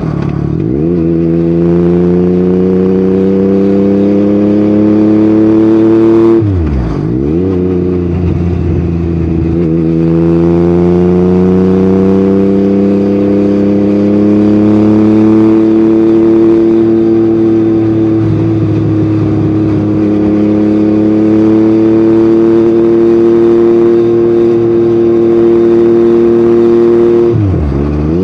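Yamaha MT-09's three-cylinder engine through an Akrapovic exhaust, ridden at a steady cruise with the revs rising and falling gently. The engine note drops sharply and picks back up briefly twice, once about six seconds in and once near the end.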